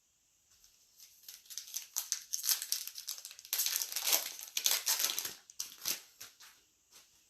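A foil trading-card pack wrapper crinkling in the hands as it is opened, in a run of crackles from about a second in until near the end.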